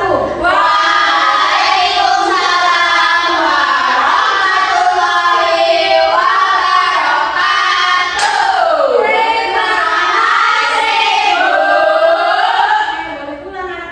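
Several high voices singing together, with long sliding notes, fading out near the end.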